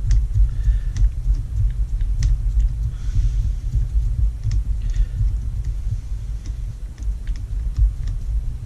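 A steady low rumble with scattered light clicks and taps from small screws, a screwdriver and plastic RC-car parts being handled, one sharper click about two seconds in.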